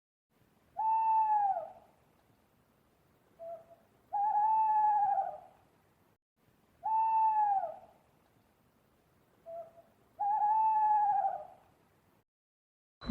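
An animal calling four times, each call a drawn-out note of about a second that rises slightly and then falls. Short soft notes come between some of the calls.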